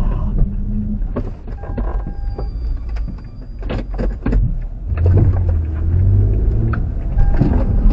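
Road vehicle noise: a steady low rumble with scattered knocks and clicks, busiest in the middle, and a few brief faint tones.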